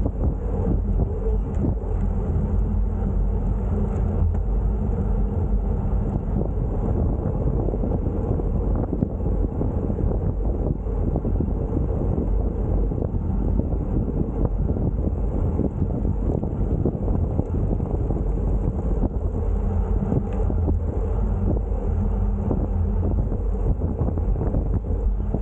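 Steady wind rumbling on the microphone of a camera riding along on a bicycle.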